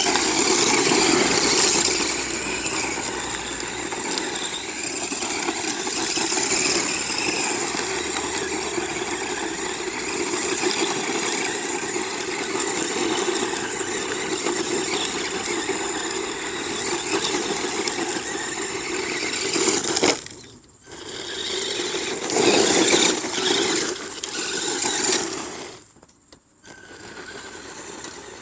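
Redcat Racing RC truck running, its motor making a steady high-pitched whine and rattle, cutting out briefly twice near the end.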